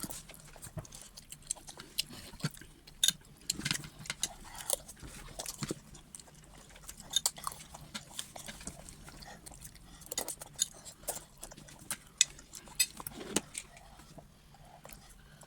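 Eating rice and vegetable stew, close to the microphone: chewing with many sharp, irregular mouth clicks and smacks.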